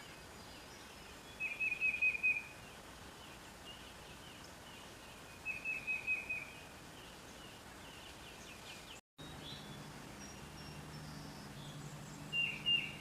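Chickadee calling in three short bursts of quick, evenly repeated high notes, each burst lasting about a second.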